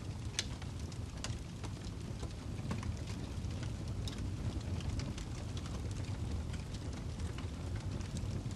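Wood fire burning in a fireplace: irregular crackles and pops over a steady low rumble of the flames, with a sharper pop about half a second in.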